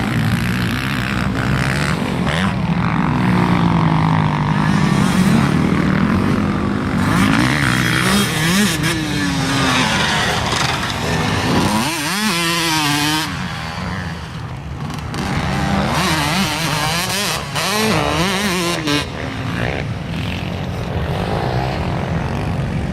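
Motocross dirt bike engines revving, their pitch climbing and dropping again and again with throttle and gear changes, with a sharp rise about halfway through.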